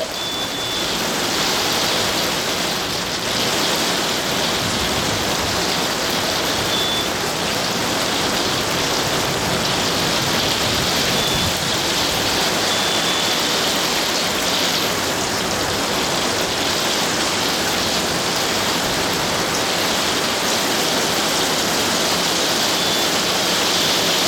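Heavy rain pouring down in a thunderstorm downpour, a steady, even hiss of rain with no thunder claps.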